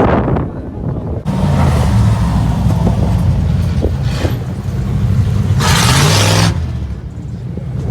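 Car engine running with a low, steady rumble close by, with a short burst of hiss about six seconds in.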